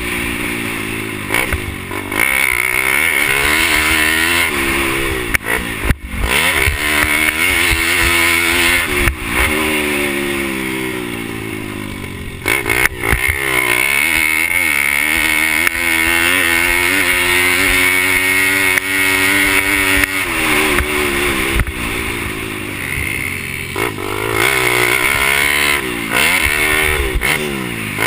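Four-stroke pit bike engine racing, revving up and dropping back again and again through gear changes and corners. There is a sharp knock about six seconds in and another about twelve seconds in.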